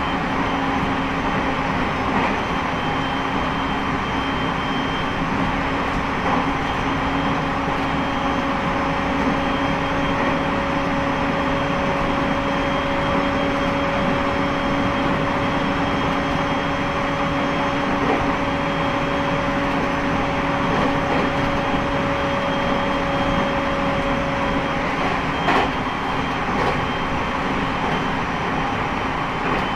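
Train running along the track, heard from inside the passenger car: a steady rumble with an even hum, and an occasional faint click, the clearest near the end.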